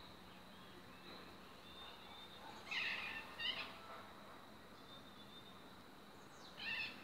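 A bird calling in short high-pitched bursts: a pair about three seconds in and one more near the end, over a faint steady high tone.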